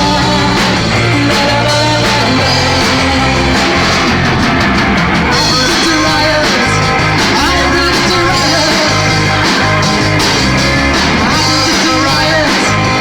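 Live rock band playing loud: electric guitar, bass and drums driving a steady beat.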